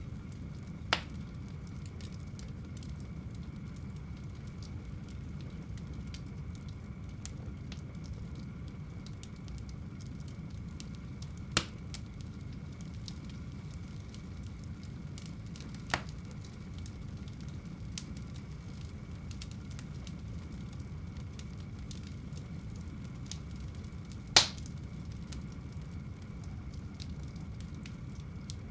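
Fire burning in a home fireplace: a steady low rumble with faint crackling and four sharp pops spread through, the last one the loudest.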